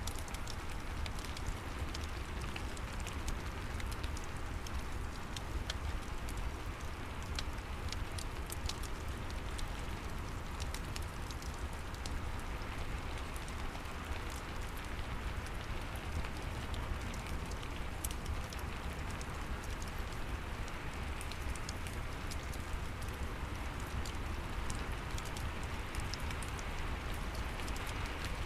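Steady rain mixed with a crackling fireplace: a constant hiss of rain over a low rumble, with scattered sharp crackles from the fire.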